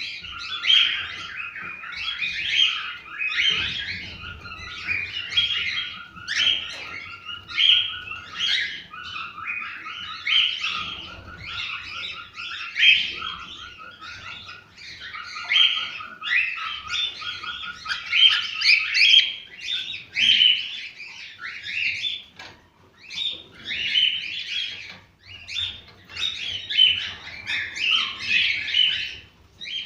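Cockatiels singing: an unbroken stream of short chirps and warbled whistles. For the first ten seconds or so a fast trill of rapidly repeated notes runs under them.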